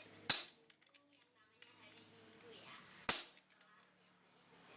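Two sharp knocks about three seconds apart, each dying away quickly, typical of a tool or part striking something hard during motorcycle clutch work.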